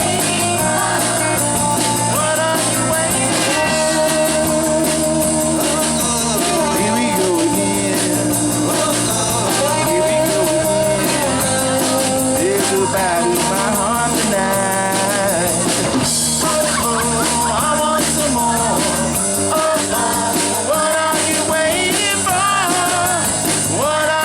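A pop-rock song with a lead singer over guitar, bass and drums, playing steadily at full volume.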